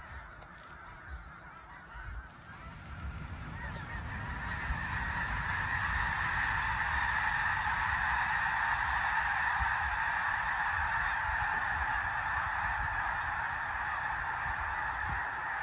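An enormous flock of snow geese honking all at once, a dense, insanely loud din of overlapping calls from birds that have been disturbed. The din swells over the first several seconds and then holds steady.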